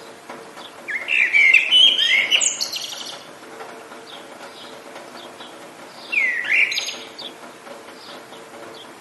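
A songbird sings two loud, rapid twittering phrases, one about a second in and one about six seconds in. Fainter distant chirps come in between, over a steady hiss of rain.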